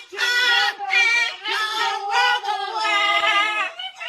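Singing: a tune sung in a run of short held notes over a steady low note underneath.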